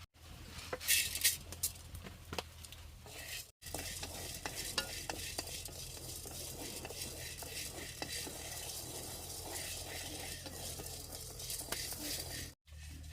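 Food being stirred and mixed in a cooking vessel, with utensil scrapes and clinks during the first few seconds. After an abrupt cut about three and a half seconds in, it becomes a steady hiss dotted with small crackles, like food cooking in a hot pan, under a constant low hum.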